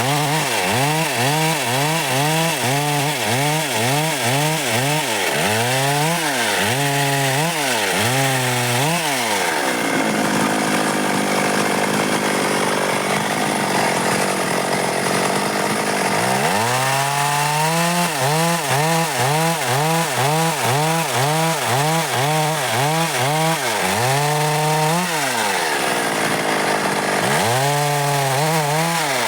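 Stihl MS 382 two-stroke chainsaw cutting dry wood at full throttle. The engine note dips and recovers about twice a second as the chain takes load in the cut, and runs steadier and higher for a few seconds in the middle.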